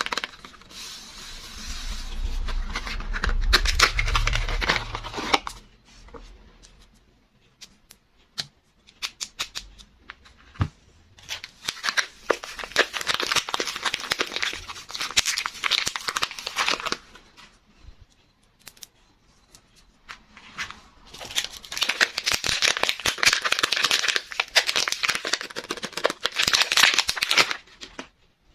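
Soap packaging being unwrapped by hand: three long stretches of wrapper tearing and crinkling, each lasting about five seconds, with scattered small taps and clicks between them.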